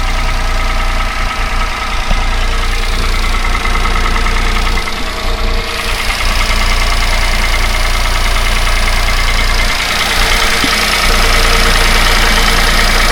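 Toyota Aygo engine idling steadily just after being test-fired, with a new catalytic converter fitted. No exhaust leak can be felt underneath.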